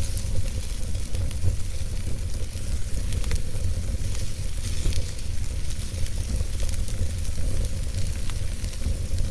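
Wood fire crackling in a fireplace: scattered small pops and ticks over a steady hiss, with a low rumble underneath.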